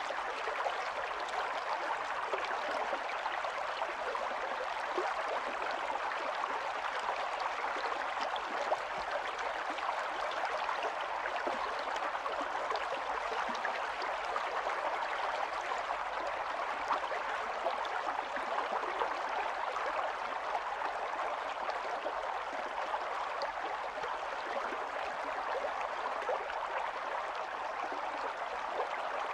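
Running water of a small stream flowing steadily, an even rush with fine small splashes throughout.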